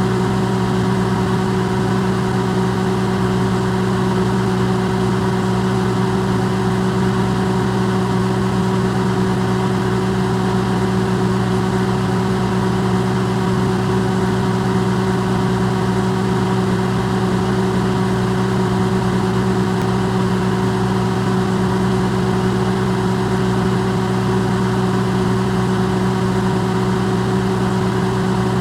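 Electrolux microwave oven running, its sound amplified: a steady, unchanging hum with a low mains-frequency drone under a whirring noise.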